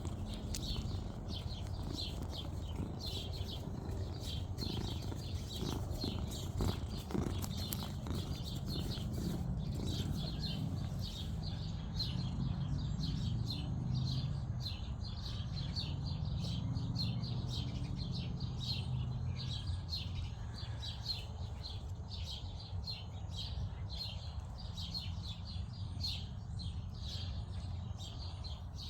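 A bird chirping over and over, short high chirps about two or three a second, over a steady low rumble, with a few soft thumps about six seconds in.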